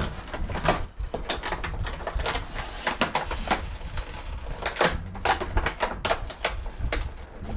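Irregular clicks, taps and rustles of a boxed action figure's cardboard and plastic packaging being handled.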